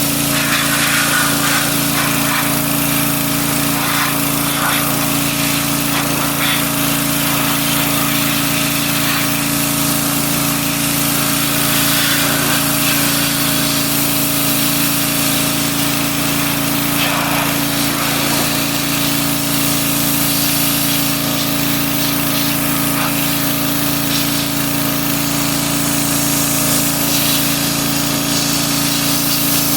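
A motor-driven machine running steadily: an even low hum with a hiss over it and a few faint scrapes.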